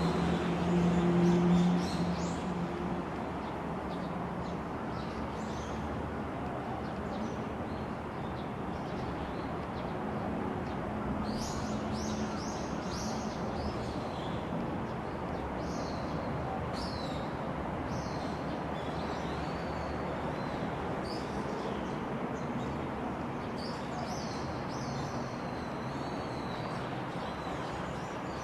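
Small birds chirping, short high calls repeated many times from about a third of the way in, over a steady outdoor background noise. A low hum is loudest in the first two seconds and then fades away.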